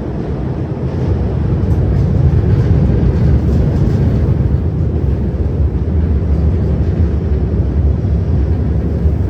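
Running noise of a CRRC Qingdao Sifang Type A metro electric train under way: a steady low rumble of wheels on rail, growing a little louder about a second in.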